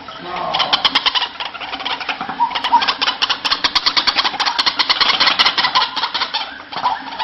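White-breasted waterhen calling: a fast run of repeated harsh notes, about eight a second, starting about half a second in and tailing off near the end, with a few short rising calls among them.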